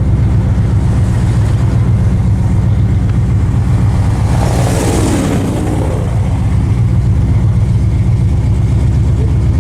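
1979 AMC AMX's engine running at low speed, a steady low drone heard from inside the cabin. A brief rushing hiss swells and fades about halfway through.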